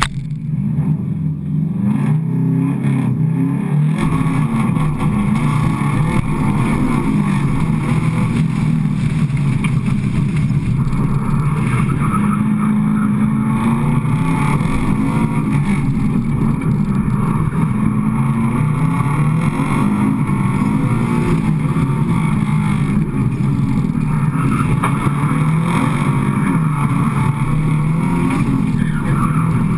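Subaru Impreza rally car's flat-four engine run hard, its pitch rising and falling again and again as the car accelerates and lifts through the course. It is heard up close from outside at the back of the car.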